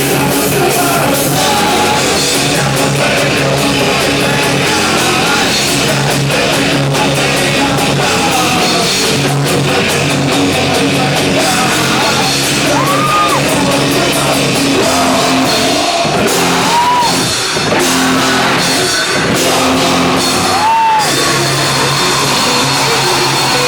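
Loud live rock band playing a song, with drums, guitars and yelled, sung vocals.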